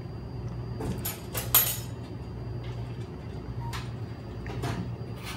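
Someone eating a toasted sub sandwich: a few short crackles and clicks of biting and handling, the sharpest about a second and a half in, over a steady low hum.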